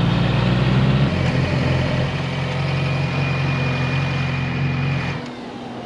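Motor vehicle engine running at a steady road speed. Its pitch steps up twice, a faint high whine joins it, and the engine note drops off sharply about five seconds in as the throttle closes.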